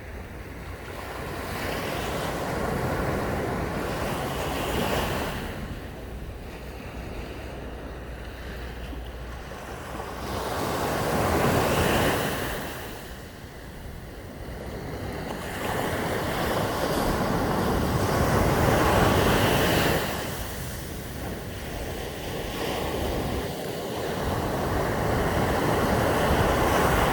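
Sea waves breaking and washing up a sandy beach, the rush of surf swelling and falling about four times, with wind on the microphone.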